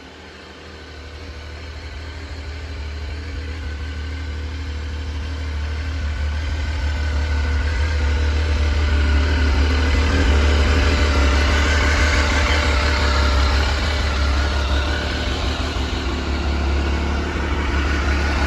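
Triumph Sprint RS 955cc three-cylinder motorcycle engine idling steadily just after a cold start. It grows louder over the first eight seconds or so, then holds steady.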